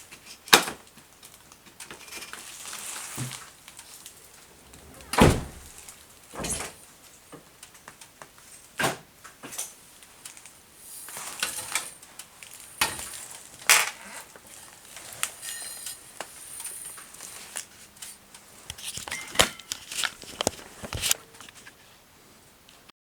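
Irregular knocks, clicks and thumps, about a dozen, the loudest a heavy thump about five seconds in; no engine is running.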